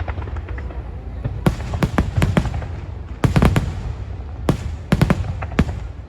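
Aerial fireworks shells bursting in quick clusters of sharp bangs, several volleys a second or so apart, over a continuous low rumble.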